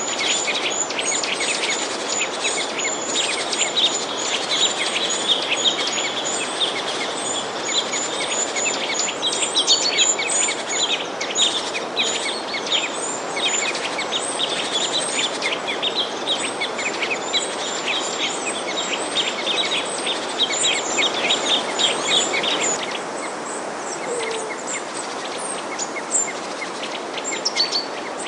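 A flock of small birds chirping and twittering rapidly together over steady background noise. The densest chirping stops about 23 seconds in, leaving scattered calls.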